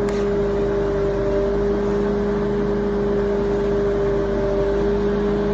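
A motor or engine running at a constant speed: an even, steady hum that does not change.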